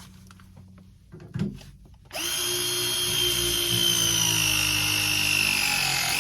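Milwaukee ProPress press tool running a press cycle on a brass adapter over copper pipe. A knock as the jaws go on, then about four seconds of steady motor whine whose pitch sinks slowly as the jaws close under load.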